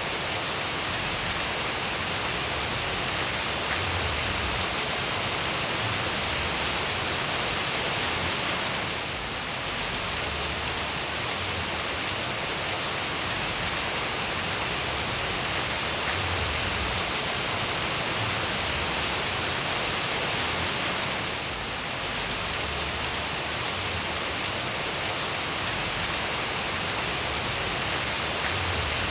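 Steady rain falling, a dense, even hiss of many drops. The level dips briefly twice.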